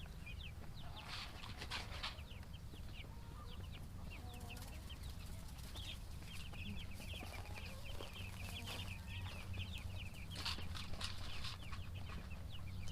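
A brood of Cornish Cross meat chicks peeping constantly: many short, high, falling peeps overlapping. A low steady hum runs beneath, with a few brief rustles about a second in and again near the end.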